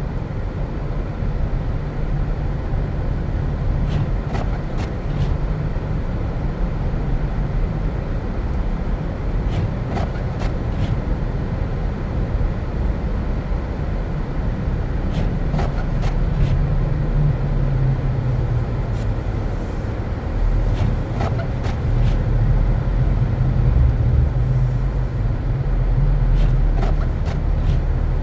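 Car driving on a snowy road: a steady low rumble of engine and tyres, growing a little louder in the second half, with faint clicks now and then.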